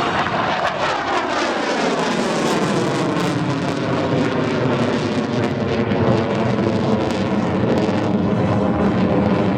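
Lockheed Martin F-22 Raptor's twin turbofan jet engines running loud on a low pass, with a sweeping, falling whoosh over the first few seconds as the jet goes by.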